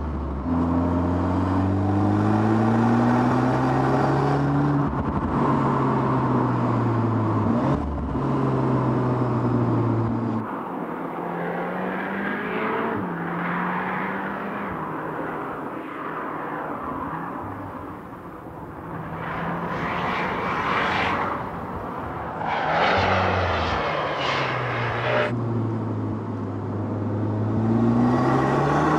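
Audi S3's 2.0 TFSI turbocharged four-cylinder engine pulling hard up through the gears, its note climbing and dropping back several times at the upshifts. Through the middle it is fainter and more distant, then it comes up loud again, the note falling off and climbing once more as it accelerates out of a bend.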